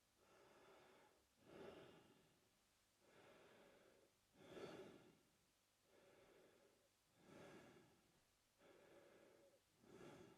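A man breathing slowly and evenly through his mouth, faint: about four full breaths, one roughly every three seconds, each a softer, steadier phase followed by a louder, rougher one.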